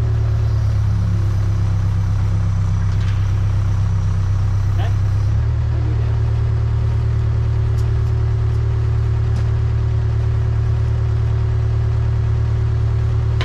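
Case 580K backhoe's diesel engine running steadily; about five seconds in, its low note shifts.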